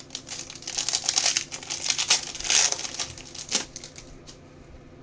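Trading cards handled by hand, slid and flipped through one against another: a fast run of clicks and rustles, with one sharper click a little past the middle.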